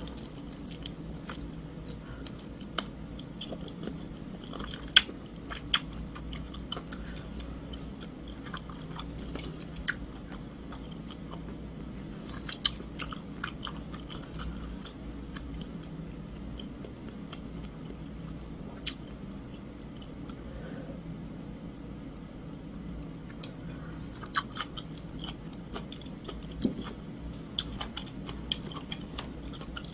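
Close mouth sounds of a person chewing marinated galbi rib meat, with scattered short wet clicks and smacks all through.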